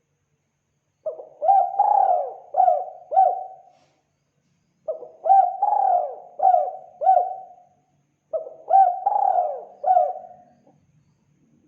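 Spotted dove (tekukur) cooing: three phrases of four or five coo notes each, a second or so apart.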